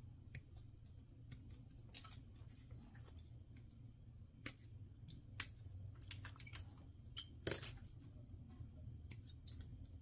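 Scattered small plastic clicks and snips, some louder than others, from a snap-fit plastic model kit being worked on: parts cut from the runner and pressed together by hand, over a low steady room hum.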